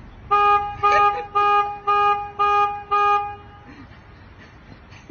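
Car horn honking six times in quick succession, about two short toots a second, all on the same steady pitch, then stopping.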